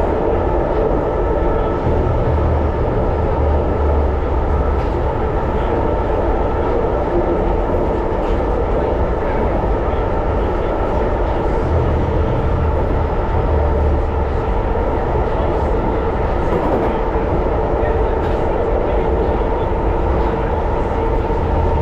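1938 Tube Stock electric train running at speed: a steady, loud running noise of wheels on track, with a low rumble that swells twice and a few faint ticks.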